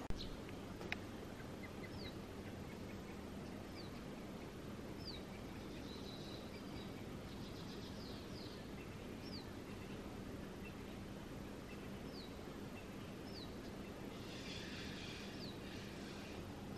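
Quiet outdoor ambience with a bird repeating a short, high, falling note every second or two, joined twice by a brief burst of higher chatter. A faint steady low hum runs underneath.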